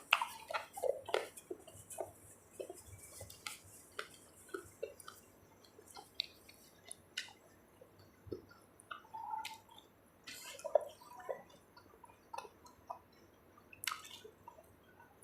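Close-up eating sounds: wet chewing, lip smacks and small squelching clicks at an irregular pace as someone eats a mouthful of seafood papaya salad.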